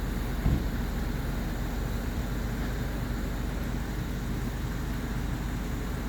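Steady low rumble of a motor vehicle, with one brief low thump about half a second in.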